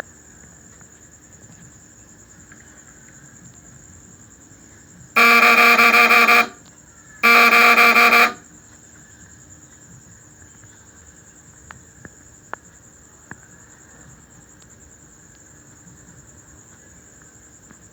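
Homemade fish stunner built from a microwave oven transformer buzzing loudly, switched on twice for about a second each time.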